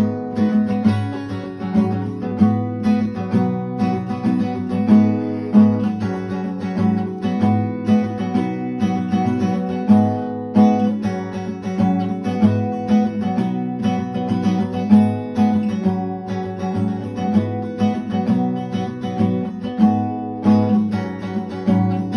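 Intro music: acoustic guitar strumming and plucking steadily.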